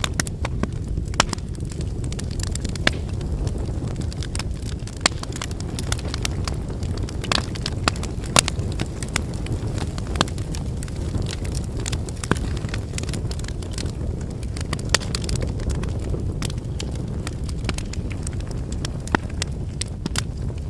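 Campfire of wood logs burning: a steady low rumble of flames with irregular crackles and sharp pops from the burning wood.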